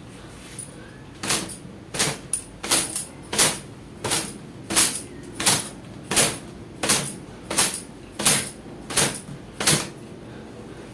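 Wet long hair being beaten with a cotton gamchha towel to shake the water out: a steady series of sharp cloth slaps, about three every two seconds, beginning about a second in.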